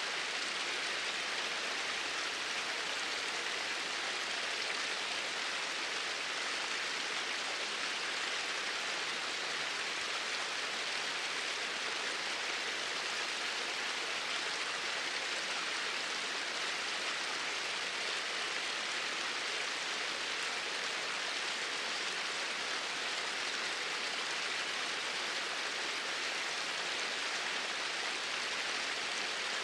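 Flowing water, a steady, even sound without breaks or changes.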